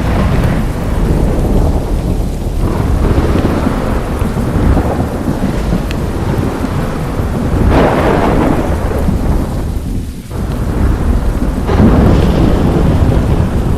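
Steady rain with rolling thunder, the rumbles swelling louder about eight seconds in and again near twelve seconds.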